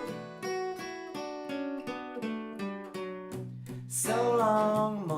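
Acoustic guitar playing a slow run of picked notes and strummed chords, with a voice singing a short phrase near the end.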